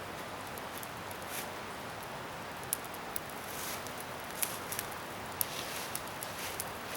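Bonfire of scrap wood burning, a steady rushing hiss with irregular sharp crackles and pops, most of them in the second half.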